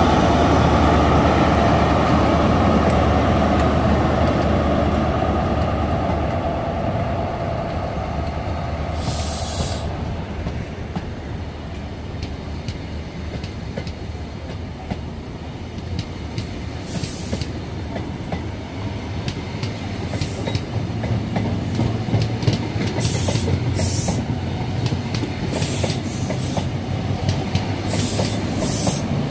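InterCity 125 passing slowly. The leading diesel power car's engine is loud at first and fades as the coaches roll by with wheel clicks and several short high-pitched squeals. Near the end the rear power car's engine grows louder.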